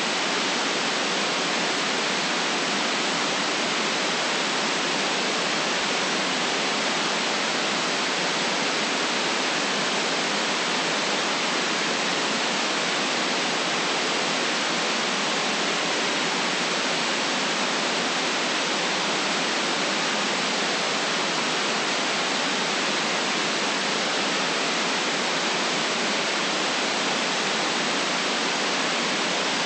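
Steady white noise, an even hiss with no deep rumble and nothing rising or falling.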